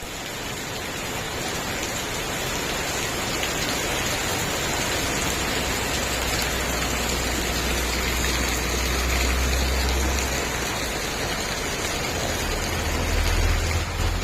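Steady rain falling, an even hiss, with a low rumble underneath that grows stronger in the second half.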